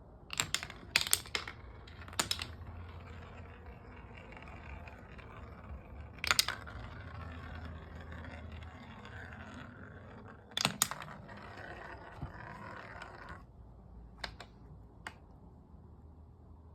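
Marbles rolling along a wooden marble run with a steady rumble, broken by sharp clicks of marbles striking the track: a cluster in the first couple of seconds, one about six seconds in, one near eleven seconds, and fainter clicks near the end. The rolling stops about thirteen seconds in.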